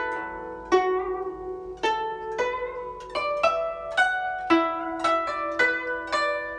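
Guzheng played solo, a phrase of single plucked notes, about two a second, each ringing on and fading before the next.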